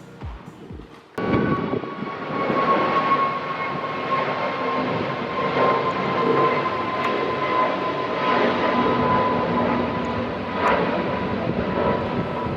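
Airbus A300-600ST Beluga's twin turbofan jet engines passing by: a loud, steady rumble with a high steady whine on top. It cuts in abruptly about a second in.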